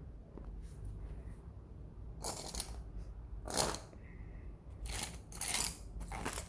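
Scissors snipping yarn: five short cuts, starting about two seconds in.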